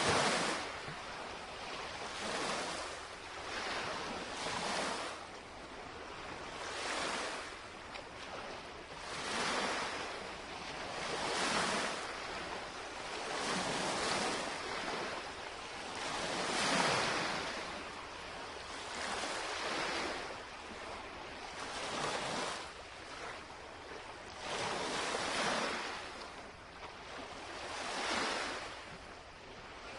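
Gentle lake waves lapping against the shoreline, a wash of water that swells and falls back every two to three seconds.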